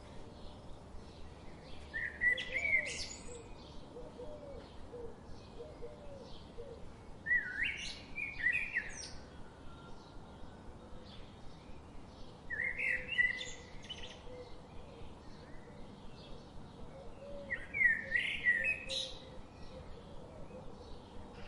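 A songbird sings a short, loud phrase about every five seconds, four times in all. Behind it runs a steady background of quick, repeated chirping from the forest.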